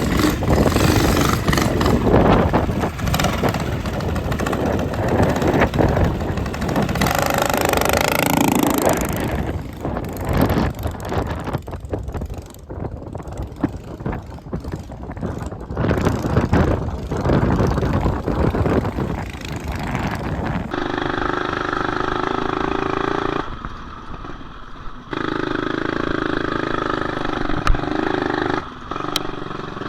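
Small single-cylinder four-stroke mini bike engine running under load as the bike is ridden, mixed with rushing wind noise. From about two-thirds of the way through it settles into a steadier, even engine note, with a brief dip in the middle.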